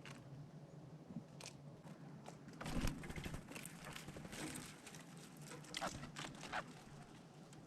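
A squirrel gnawing and crunching food close by: irregular crisp clicks and crackles, with a louder burst about three seconds in and another cluster near the end.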